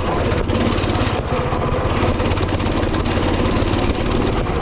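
Coleman mini bike's Predator 224 single-cylinder four-stroke engine running steadily while the bike is ridden.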